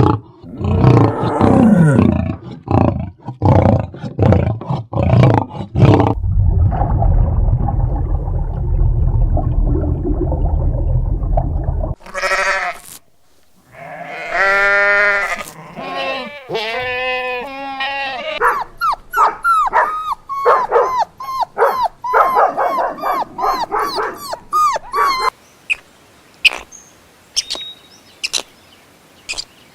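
A run of different animal calls cut one after another: a burst of loud repeated calls, then several seconds of low steady rumbling, then a long series of pitched, bleat-like calls coming quickly one after another, with faint scattered clicks near the end.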